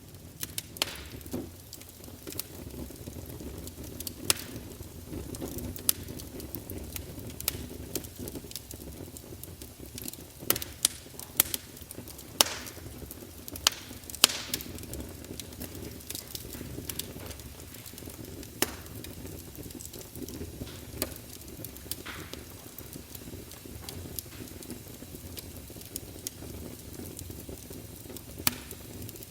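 Wood fire burning in a fireplace: logs crackling with frequent sharp, irregular pops over a steady low rumble of flame. A flurry of the loudest pops comes about halfway through.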